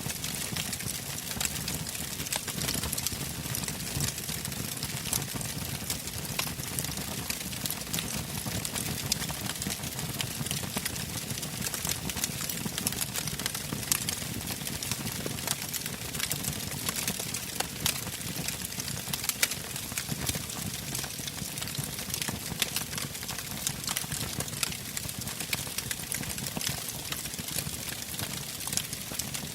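Wood fire burning in a fireplace, crackling with frequent sharp pops over a low steady rush of flame.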